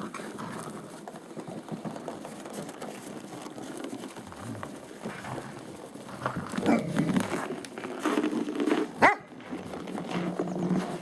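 Great Pyrenees puppies making low dog sounds and whines, getting louder after about six seconds, with one short, sharp, rising yelp about nine seconds in.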